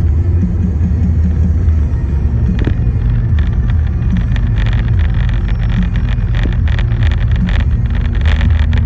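A road vehicle driving, with a steady low road rumble and a crackling hiss that comes and goes over the second half.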